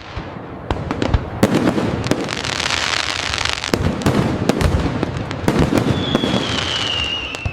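Fireworks going off: repeated sharp bangs and deeper booms over dense crackling. Near the end a high whistle glides slightly down in pitch.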